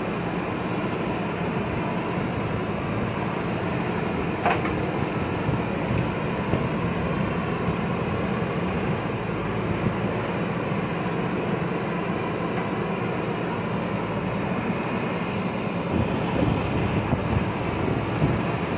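JCB backhoe loader's diesel engine running steadily while it works, with a sharp knock about four and a half seconds in and a few lighter knocks near the end.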